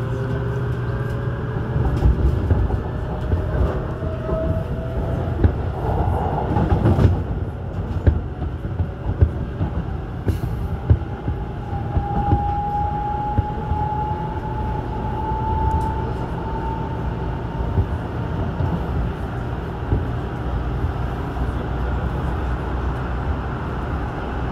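Airport Railroad all-stop electric train running, heard from inside the car: a steady low rumble with sharp clicks from the wheels on the rails. A motor whine rises in pitch over the first five seconds as the train gathers speed, and a steadier higher tone sounds for a few seconds in the middle.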